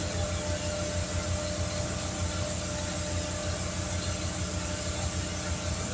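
A motor running steadily with a rapid low throb.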